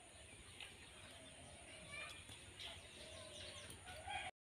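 Quiet outdoor ambience with faint, scattered chirps of small birds and a thin steady high tone. The sound cuts out to silence for a moment near the end.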